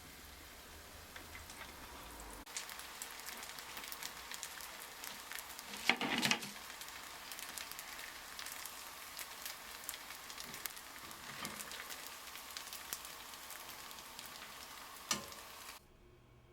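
Rice patties shallow-frying in hot vegetable oil: a steady sizzle full of small crackles and pops. It gets louder about two and a half seconds in, swells briefly around six seconds, and cuts off suddenly near the end.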